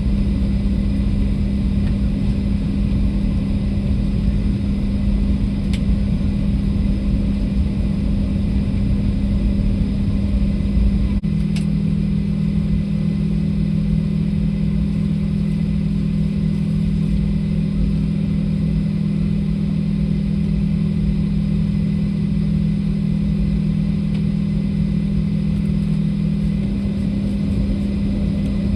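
Steady cabin drone of a Boeing 737 airliner: jet engine and airflow noise heard from inside the passenger cabin, with a strong low hum. About eleven seconds in there is a faint click and the hum shifts slightly lower.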